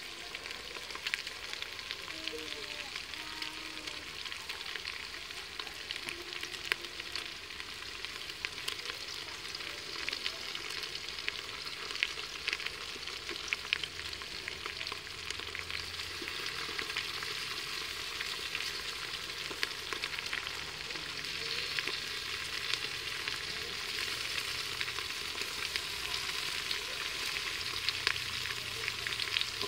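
Vegetables frying in an aluminium pot over a wood fire: a steady sizzle with many small crackles and pops.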